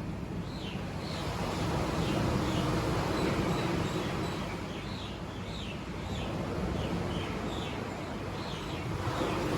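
Sea surf washing onto the shore, swelling and easing in slow waves. Over it a bird chirps again and again in short, high, falling notes.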